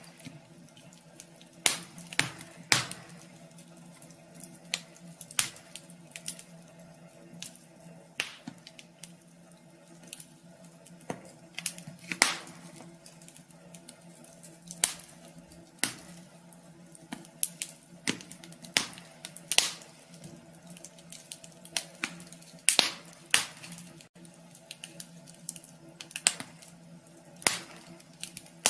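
Wood fire crackling in a wood stove: irregular sharp pops and snaps, some in quick clusters, over a faint steady hum.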